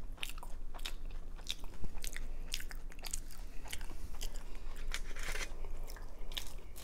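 Close-miked chewing of a mouthful of spicy ramen noodles, with many short wet mouth clicks and smacks.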